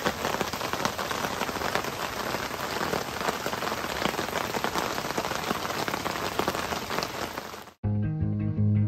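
Steady rain falling, with a dense patter of individual drops hitting surfaces. Near the end it cuts off suddenly and background music with a bass line begins.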